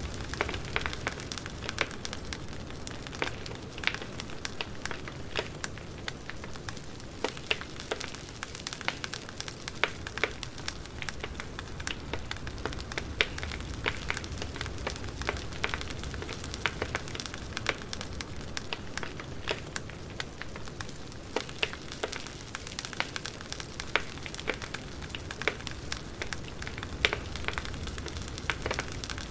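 Campfire burning, the wood crackling with many small sharp pops and snaps at irregular intervals over a low steady rush of flame.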